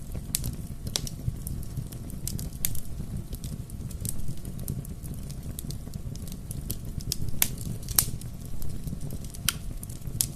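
Bonfire crackling: irregular sharp pops and snaps of burning wood over a steady low rumble of the flames, with the loudest snaps about seven and a half and eight seconds in.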